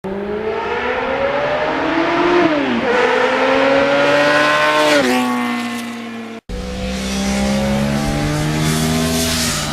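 Motorcycle engine accelerating through the gears: the pitch climbs, then drops sharply at two upshifts. After a brief cut it runs at a steadier pitch.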